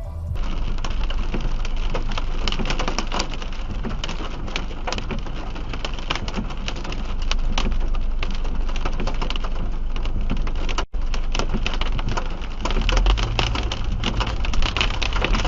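Heavy rain falling on a car, a dense patter of many drop hits over a low steady rumble of the car on the road. The sound drops out for an instant about eleven seconds in.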